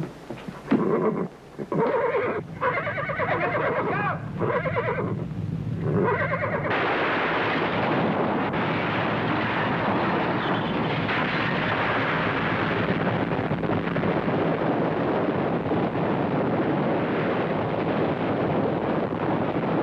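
A horse whinnying several times over the first six seconds or so. Then a loud, steady, dense rumbling noise takes over and runs on without a break.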